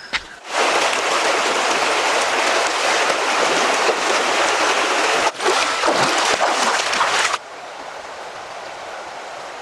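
Loud rushing, splashing water that starts suddenly about half a second in and cuts off abruptly about seven seconds in, with a brief break before six seconds.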